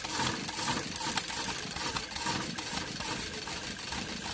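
Maruti Swift Dzire's four-cylinder petrol engine idling unevenly on CNG, misfiring, with a rapid tick-tick-tick from the CNG injectors. The misfire on CNG is traced to the cylinder 2 CNG injector not working.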